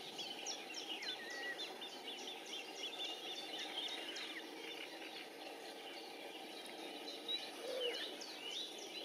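Birds chirping: many short, high chirps and whistles over a steady background noise, with a lower call near the end.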